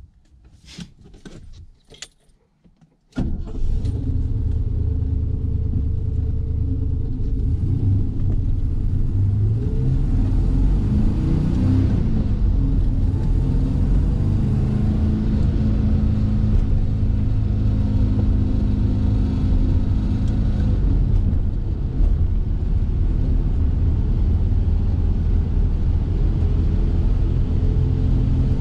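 A few light clicks and rattles, then about three seconds in the BMW-Glas 3000 GT's V8 engine comes in abruptly and runs, heard from inside the cabin. Its pitch rises as the car accelerates, then it settles into a steady run, with a short dip about 22 seconds in.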